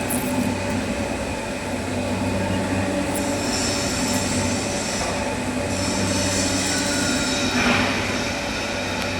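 Metal lathe running with a steady machine hum. A high, hissing squeal comes in about three seconds in and again around six seconds.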